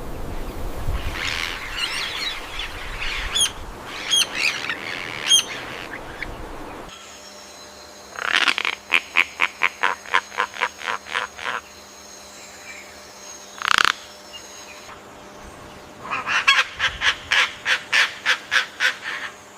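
Bird calls. In the first few seconds a jumble of calls sounds over a low rumble. Then come two runs of quickly repeated notes, about three a second, with a single call between them.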